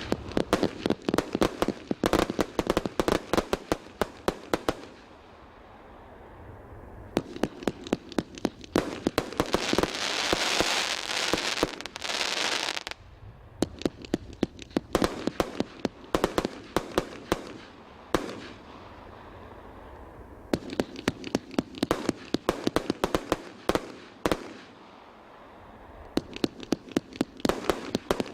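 A multi-shot firework cake (the "Bolshoy Stolnik" salute battery) firing rapid volleys of sharp shots and bursts, several a second. Short lulls come between the volleys, and a stretch of dense hissing crackle runs about halfway through.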